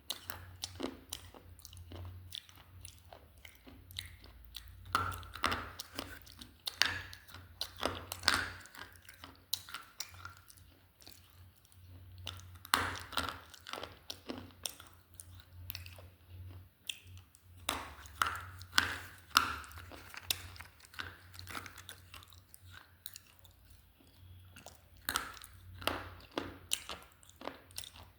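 Slate pencils being bitten and chewed close to the microphone: crisp, brittle crunches in bursts every few seconds, with quieter grinding chews between them.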